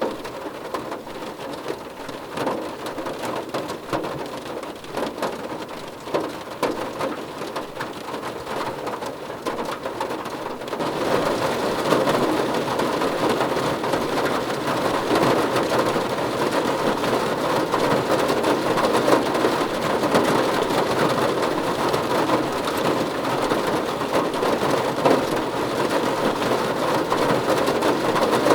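Rain falling on a car roof: a dense patter of drops that steps up and grows heavier about eleven seconds in.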